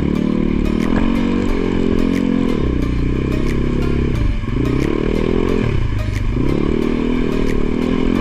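Enduro motorcycle engine running hard under load. Its pitch drops and climbs back three times as the throttle is eased and reopened.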